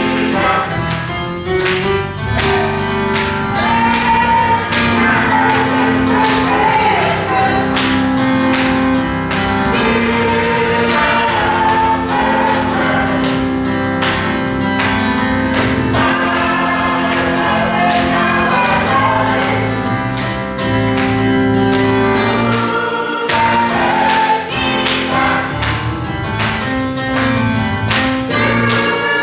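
Gospel music: choir voices singing sustained lines over instrumental backing with a steady beat of about two strokes a second.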